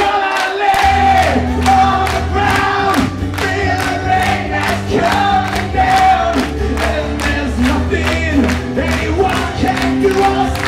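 Live acoustic rock music with many voices singing a wordless held melody together, the crowd singing along over a steady beat. A low bass comes in about a second in.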